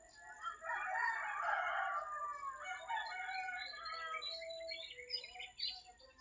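Rooster crowing one long crow, followed by small birds chirping in quick, high notes.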